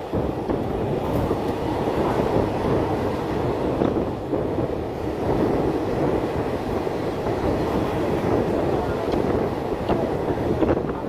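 Passenger train running: a steady, continuous rumble of the moving coaches on the track.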